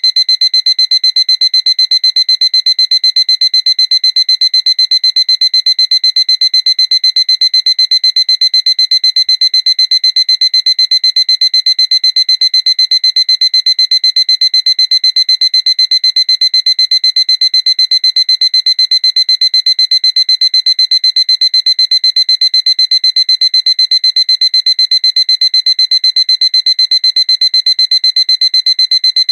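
Seiko alarm clock ringing: a loud, high-pitched electronic beep repeated in a rapid, even rhythm, without a break.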